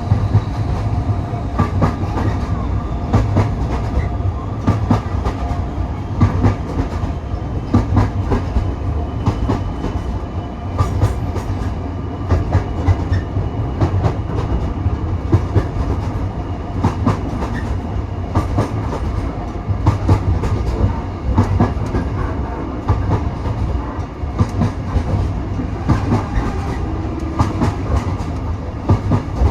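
Railway carriage running along the track: a steady low rumble with frequent irregular clicks and knocks of the wheels over the rail joints.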